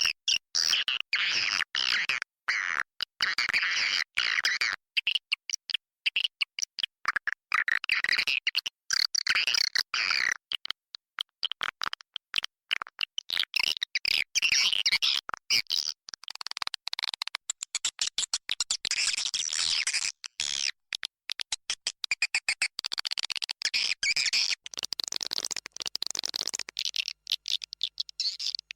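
Swiftlet calling recording: dense, rapid, high-pitched twittering and chirping from many edible-nest swiftlets, coming in bursts of several seconds with abrupt gaps between them. It is the 'inap' roosting call, played in swiftlet houses to lure the birds in.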